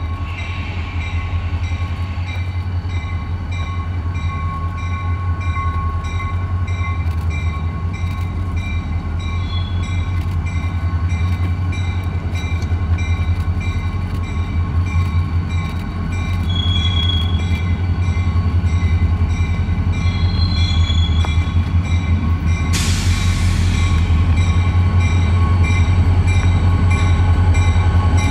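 Diesel-hauled train rolling past with a steady low, pulsing rumble of locomotives and cars, slowly growing louder. A short hiss comes about 23 seconds in.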